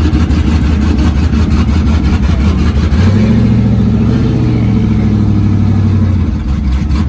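Pickup truck engine running loudly, its revs rising about three seconds in and holding, then settling back just after six seconds.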